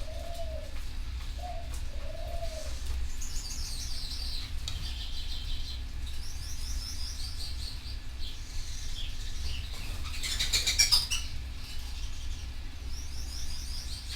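Canaries singing rapid, high trilled phrases, with a dove cooing softly during the first few seconds. About ten seconds in comes a brief loud flurry of wing flapping.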